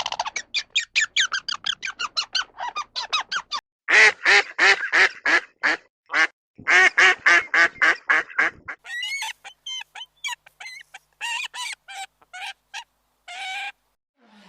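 Domestic waterfowl calling in quick runs of harsh calls, several a second, for about the first nine seconds; after that the calls turn thinner, higher and more scattered.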